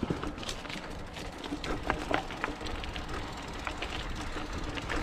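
29er hardtail mountain bike rolling over a dirt trail: a steady tyre-and-wind rumble with many short, irregular clicks and rattles from the bike.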